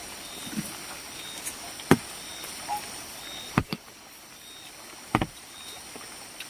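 A few sharp knocks, the last a quick double, spaced a second or more apart, over a faint steady background with short high chirps repeating about once a second.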